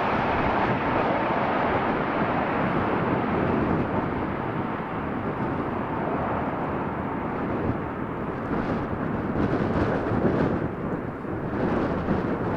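Jet airliner engine noise, a steady rumbling roar, mixed with gusty wind buffeting the microphone, which swells and flutters in the second half.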